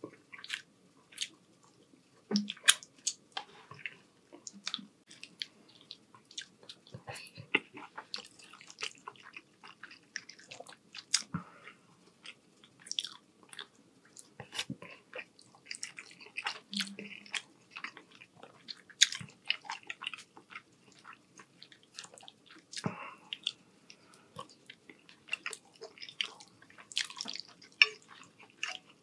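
Close-miked chewing and mouth sounds of a person eating rotini pasta in meat sauce: wet smacking with many short, sharp clicks coming irregularly throughout.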